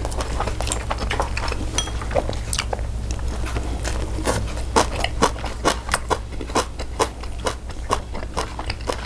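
Close-miked chewing and crunching of food: irregular sharp crunches and clicks, more frequent from about four seconds in, over a steady low hum.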